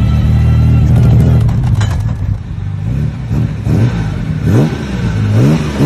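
Aston Martin DB4 GT Continuation's 4.2-litre straight-six engine running, then revving up in several rising sweeps as the car accelerates.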